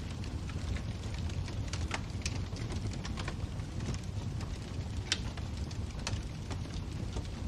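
Wood fire burning in a fireplace, crackling: irregular sharp pops over a steady low rumble of the flames, the sharpest pop about five seconds in.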